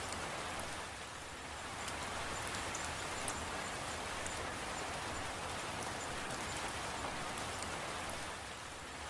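Steady rainfall with scattered fine drop ticks, easing slightly for a moment about a second in and again near the end.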